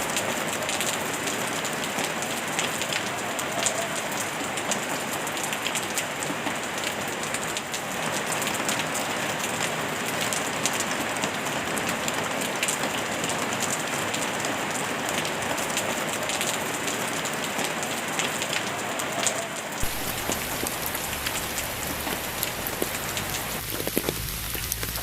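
Steady rain falling, an even wash of countless small drop impacts. About twenty seconds in, a deeper, fuller low end joins the sound, and near the end low steady tones come in under it.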